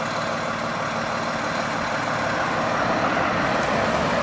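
Fire engine's diesel engine running steadily, a continuous rumble with a slight rise in level after the midpoint.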